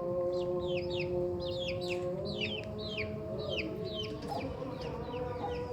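Baby chicks peeping continuously, many short high peeps falling in pitch, over background music with long held notes.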